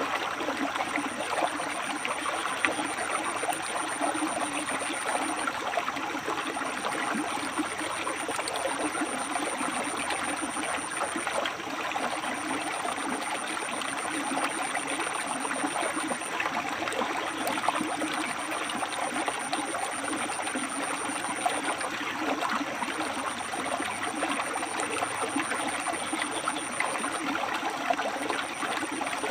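River water flowing and splashing over and between rocks, a steady, even rushing.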